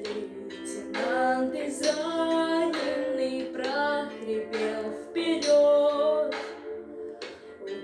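Young female voices of a children's vocal ensemble singing a song in phrases, over a steady backing accompaniment.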